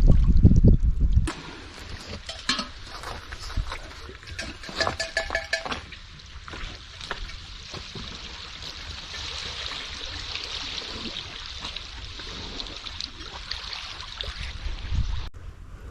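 Water trickling and splashing, with small clicks and drips scattered through it. A loud low rumble fills the first second or so and cuts off suddenly.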